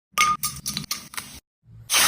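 A quick run of sharp clinks and taps from kitchen utensils against cookware. Near the end, a loud, steady rushing noise starts abruptly.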